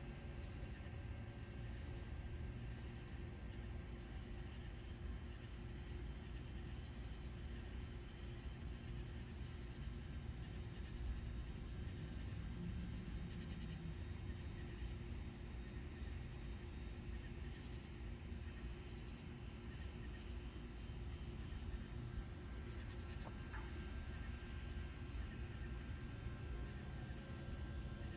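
Crickets trilling continuously in a steady, high-pitched drone that holds unchanged throughout, over a faint low background rumble.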